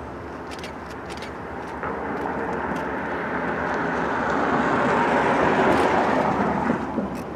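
A passing vehicle: its noise swells over several seconds to a peak and drops away near the end, with a few faint sharp ticks.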